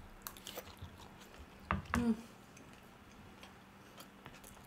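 Close-miked eating: scattered soft mouth clicks and smacks of people chewing mouthfuls of lamb biryani, with a brief closed-mouth "mm" about two seconds in.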